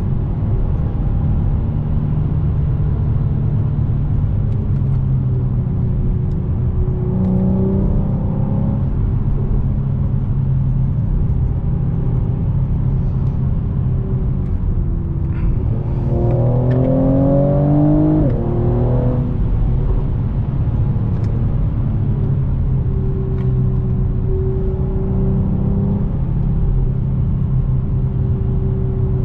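Mercedes-AMG E43 engine and exhaust under way, the note rising and falling with the throttle. About two-thirds of the way through, a hard pull climbs in pitch for a few seconds before dropping back.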